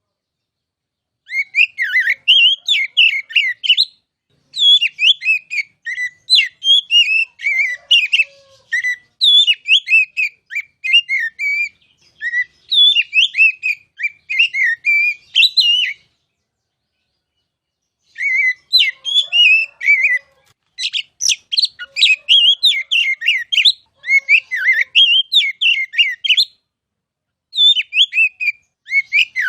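Oriental magpie-robin (kacer) singing loudly: fast runs of varied whistled notes and chirps that glide up and down in pitch. The song comes in long bursts, beginning about a second in and broken by a pause of about two seconds past the middle and a shorter one near the end.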